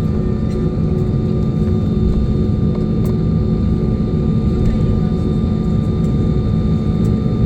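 Steady low rumble and hum of an Airbus A320's jet engines heard inside the passenger cabin, with a few fixed, steady tones above the rumble.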